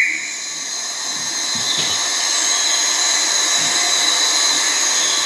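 Steady, high-pitched drone of insects in forest, with no pauses or changes.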